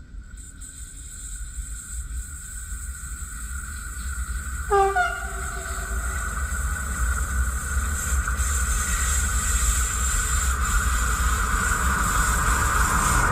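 An electric train approaching along the track, its rumble and the hiss of the rails growing steadily louder. About a third of the way in, the train sounds one short horn blast.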